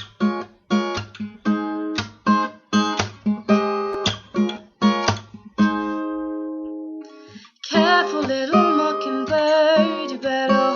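Acoustic guitar strumming chords in a steady rhythm, with one chord left ringing out about six seconds in. A voice then starts singing over the guitar.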